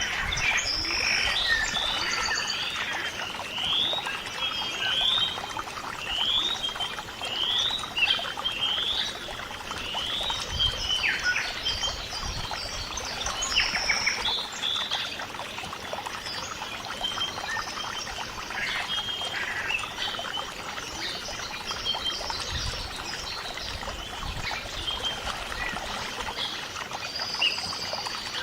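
A chorus of birds calling and singing: many short chirps, including a run of repeated rising notes, over a steady hiss.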